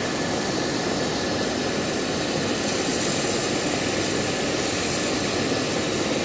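Medical helicopter running on the ground before lifting off, rotors turning: a steady high turbine whine over dense, even engine and rotor noise.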